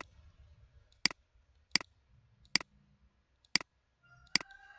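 Computer mouse button clicking five times at irregular intervals of under a second, single sharp clicks.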